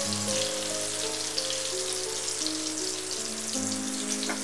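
Besan-battered stuffed green chillies deep-frying in hot oil in a pan, a steady sizzle. Soft background music of held notes that step from one pitch to another plays under it.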